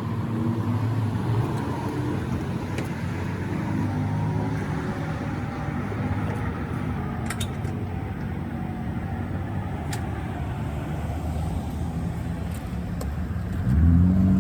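A vehicle engine running steadily with a low rumble, with a few faint clicks.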